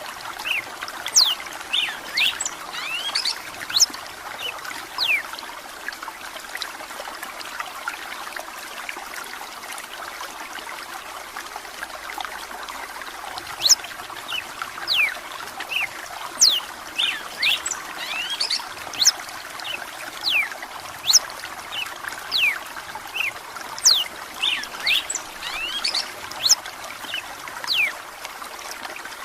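Red-cowled cardinal singing phrases of quick, sharply falling whistled notes over steady trickling running water, with a pause in the song of several seconds in the first half.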